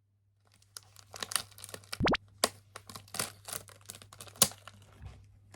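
Close-up crinkling and clicking of small objects being handled, with a quick rising sweep about two seconds in and a sharp click near the end.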